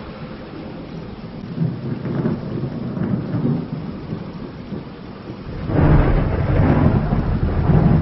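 Thunder rumbling over steady rain, with a low rumble a couple of seconds in and a much louder, deeper peal starting near the end.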